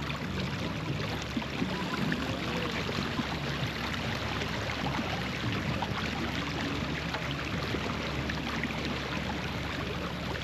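Steady rushing of water and wind aboard a sailboat under sail.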